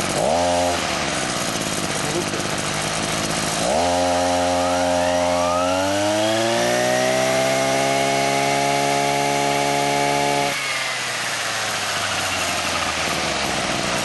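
Kubota brush cutter's small engine idling, blipped once at the start, then revved up from about four seconds in, held high for several seconds and dropped back to idle about ten seconds in. The throttle is being worked to check that the repaired, once-seized engine returns to a steady idle.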